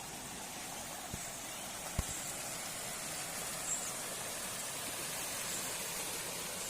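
Steady rush of flowing water from a stream or river, with two short low thumps about one and two seconds in.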